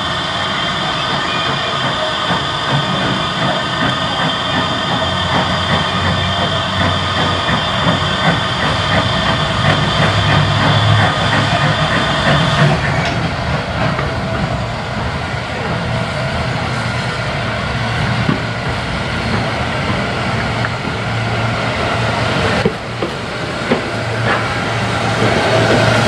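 Steam locomotive and its train running, with steam hissing and the clatter of wheels on the rails. The steady hiss stops abruptly about halfway through.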